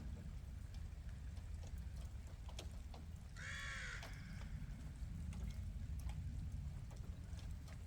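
A crow cawing once, a single harsh call about three seconds in, over a steady low rumble and a few faint ticks.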